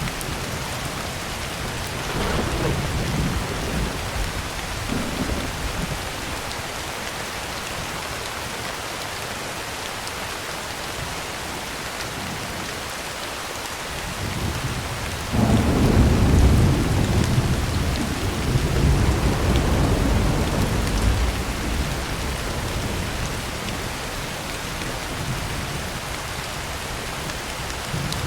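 Heavy rain falling steadily on a tin roof, with thunder: a low rumble a couple of seconds in, then a louder clap starting suddenly about halfway through and rolling on for several seconds before dying back to the rain.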